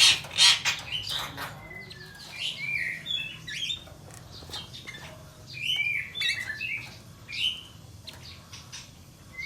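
A songbird chirping and singing in clusters of short whistled notes that glide up and down, with the densest bursts at the start and again about six seconds in; a tutor bird in full song.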